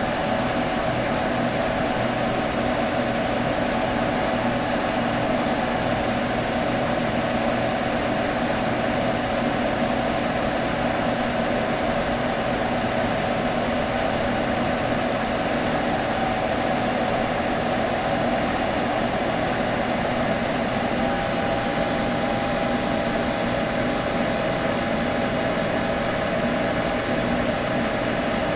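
Computer running with a steady hum: fan whir over a broad hiss, with a strong tone in the middle range and a lower one beneath it, unchanging throughout.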